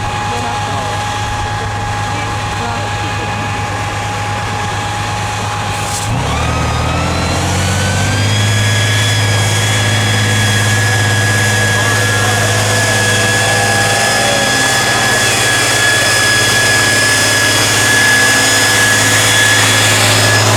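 Tatra 813 truck's air-cooled V12 diesel running with a steady whine. About six seconds in it revs up and then holds at a higher, slightly louder pitch.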